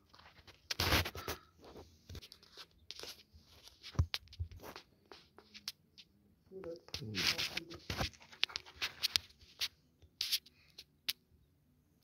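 A puppy tearing and chewing at a dead calf's carcass: irregular tearing and scraping noises with sharp clicks, and a short pitched sound about seven seconds in.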